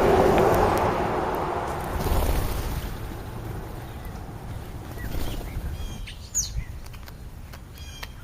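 A rushing noise fades away over the first few seconds. Then European starlings give short chirps and whistles, with one sharp high note and a quick run of repeated calls near the end.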